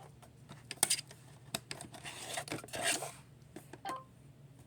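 Hard plastic clicks and knocks from the Roomba i5's dust bin being handled and pushed into place, with a scraping rub about two seconds in.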